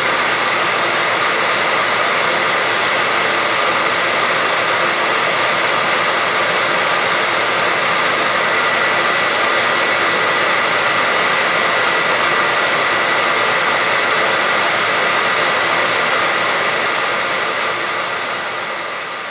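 Hair dryer running steadily: a continuous blowing hiss with a faint steady whine, beginning to fade out near the end.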